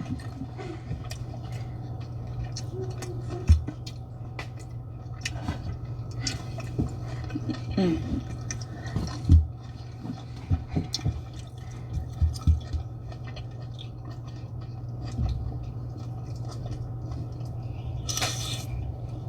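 Close-up eating sounds of a seafood boil: chewing and wet, sauce-covered mussels and shrimp being handled, with scattered small clicks and thumps. A steady low hum runs underneath, and there is a short hissing rush near the end.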